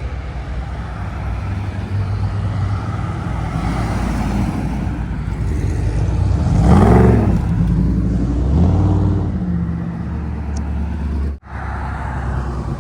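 Classic car engines running as cars drive past one after another. The loudest passes about halfway through, its engine note rising then falling, with another close behind it.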